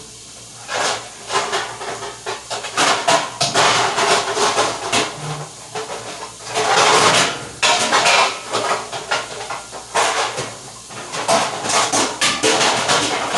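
Pots, pans and utensils clattering and scraping: a long string of irregular knocks and clinks, with a longer scraping stretch about halfway through.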